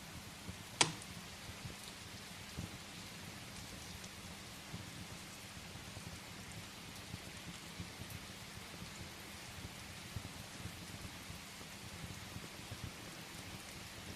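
Steady rain hiss with a wood fire crackling underneath in small irregular ticks; one sharp, loud pop from the fire about a second in.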